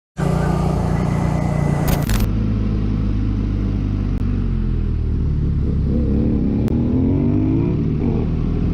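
Motor vehicle engine and road noise running steadily, with an engine's pitch rising and then falling about six seconds in.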